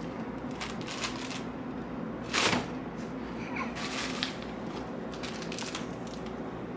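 Food items and packaging being handled and moved around inside a refrigerator: scattered rustles and small clicks, with one louder knock about two and a half seconds in, over a steady low hum.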